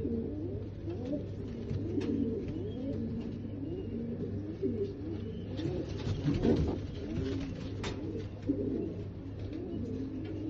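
Several domestic pigeons cooing continuously, their low rolling coos overlapping one another, with a few sharp clicks among them.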